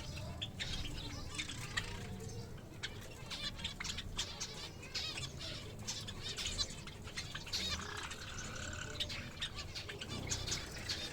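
A flock of caged pet birds, Java finches among them, chirping busily with many short overlapping calls, and wings fluttering.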